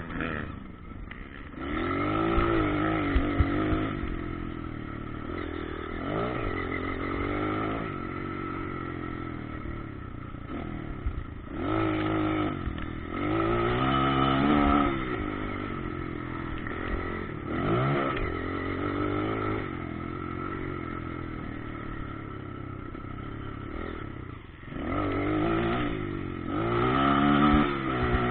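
Motocross bikes running on a dirt track, their engines revving up and dropping back again and again as riders accelerate and pass, with a few sharp clacks along the way.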